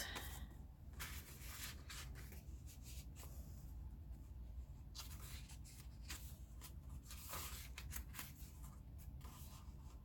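Faint rustling and brushing of paper as the pages of a handmade junk journal are handled and turned, in scattered short strokes.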